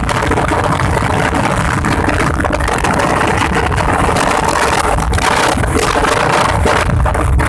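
Motorcycle engines running steadily on the move, under a dense rushing noise.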